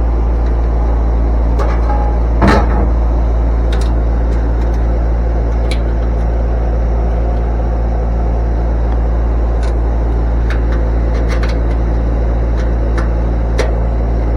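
Steady low hum of running machinery, with a short clatter about two and a half seconds in and a few light clicks scattered through.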